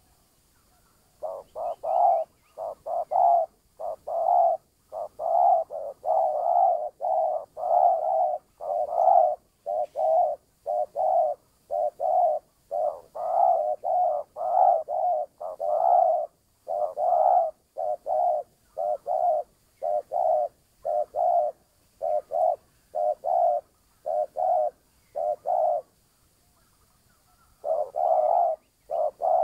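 Spotted dove (terkukur) cooing over and over, in a long run of short, low coos. This is the call used as a lure to draw in wild doves. The coos start about a second in, break off briefly near the end, and then start again.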